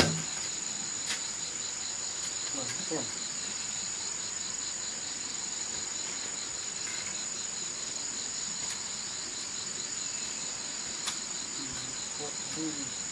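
Insects calling steadily: a high, unbroken shrill with a fast, even pulsing trill beneath it. A sharp knock comes right at the start, with a few faint clicks later.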